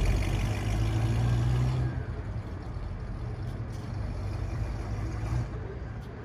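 The 1958 Chevrolet Corvette's 283 cubic-inch small-block V8 running as the car pulls away. Its low engine note is strong at first, drops off about two seconds in, and fades as the car moves off.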